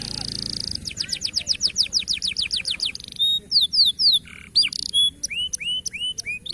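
Domestic canary singing: a short buzzy trill, then a fast run of falling whistled notes, about seven a second, then varied chirps and a few rising slurred notes near the end.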